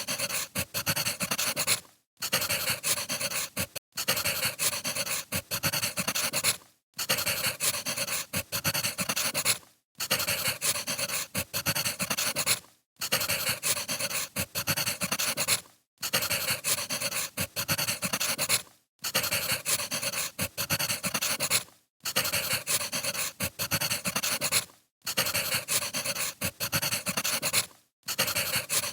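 Wood fire crackling: a dense run of small pops and snaps, broken by a brief drop-out about every three seconds.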